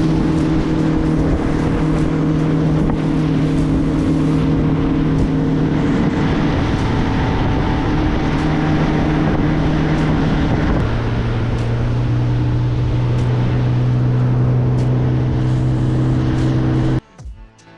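A motorboat's engine running steadily under way, with rushing wind and water noise; about eleven seconds in its pitch drops to a lower, steady note, and the sound cuts off suddenly near the end.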